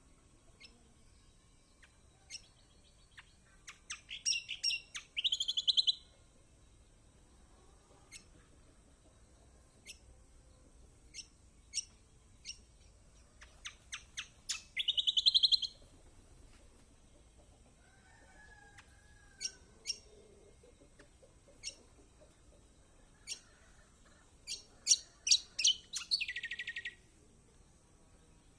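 Kecial kombok, a white-eye, calling: single sharp chips every second or two, and three times a quickening run of notes that breaks into a loud fast buzzy trill.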